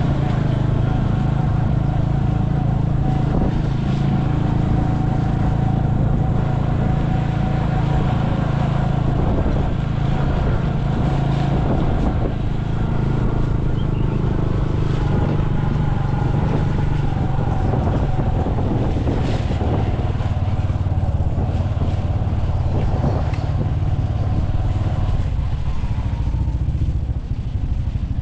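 A vehicle engine running steadily with a constant low hum, easing off slightly near the end.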